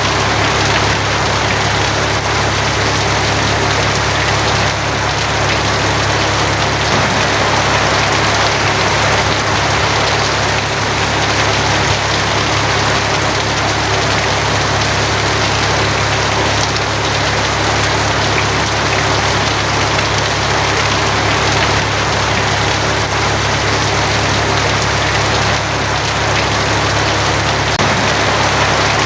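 Steady heavy rain drumming on a tin roof, an even dense hiss with a constant low rumble underneath.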